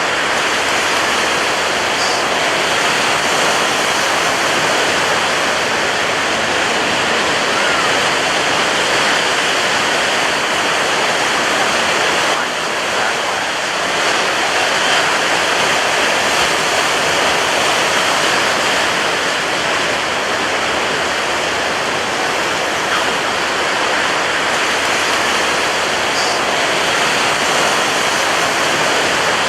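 Ocean surf breaking on a beach: a steady, dense wash of water noise with no single wave crash standing out.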